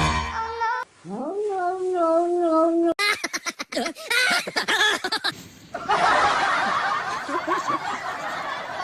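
A long wavering voice-like note, then laughter in quick short bursts, then a dense noisy stretch to the end.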